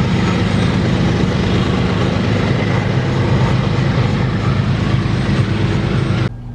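Train passing close, with a steady low drone of locomotive diesel engines under loud rolling noise. It cuts off suddenly near the end.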